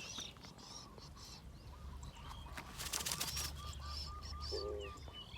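Several birds chirping and calling, with one bird repeating a short note about four times a second through most of the stretch. A brief rustling clatter comes about three seconds in.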